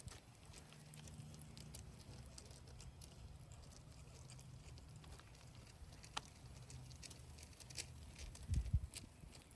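Faint patter and scattered light clicks over a low steady hum, with a few low thumps near the end.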